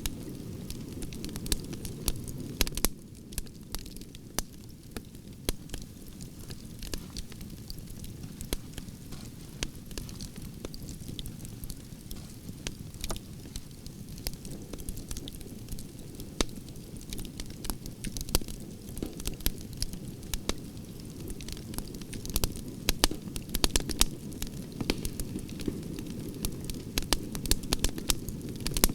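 Burning wood branches crackling and popping in a campfire, with many sharp irregular pops over a steady low rumble of the flames.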